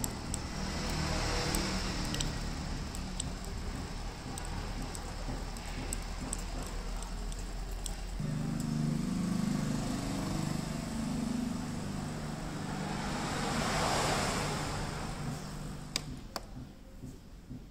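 De'Longhi coffee machine running with a steady mechanical hum that steps up louder and higher about eight seconds in. A rising and falling hiss swells around fourteen seconds, followed by a few sharp clicks near the end.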